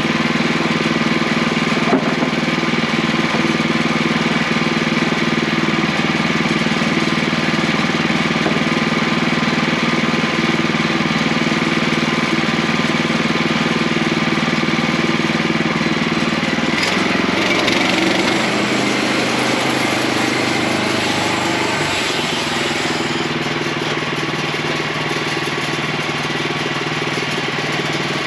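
Portable sawmill's engine running steadily. About two thirds of the way through, for several seconds, its note drops lower and a brighter hiss joins in, then it settles back to a steady run.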